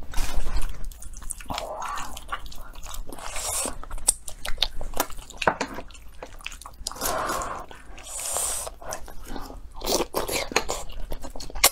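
Close-miked eating sounds: wet chewing and biting of noodles and meat, with short sharp clicks of chopsticks against bowls.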